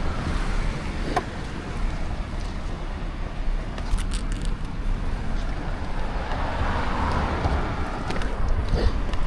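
Road traffic noise: a steady low rumble that swells as a vehicle passes about seven seconds in.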